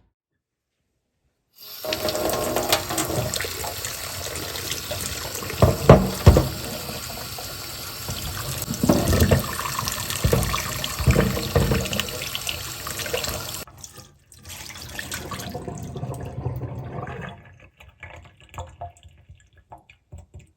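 Tap water running into a sink, starting about two seconds in, with clinks and knocks throughout and two loud knocks about six seconds in. The water stops near two-thirds of the way through, runs again for a few seconds, then only a few light knocks remain.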